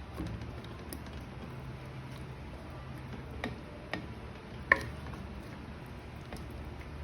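Cooking utensils clinking in the kitchen: three light clicks over a steady low background rumble, the third the loudest with a short ring.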